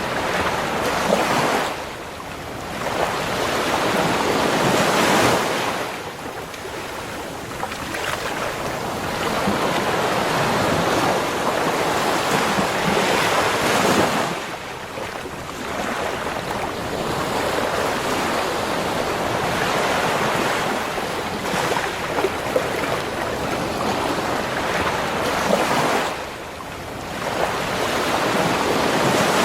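Ocean waves breaking and washing up a beach, the surf swelling and falling back every few seconds, with some wind on the microphone.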